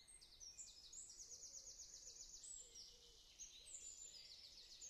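Faint birdsong: small birds chirping high and thin, with rapid trills of quickly repeated notes.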